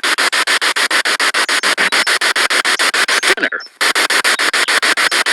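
Spirit box radio sweeping through stations: static chopped into rapid, even pulses about ten times a second, with a brief dropout about three and a half seconds in.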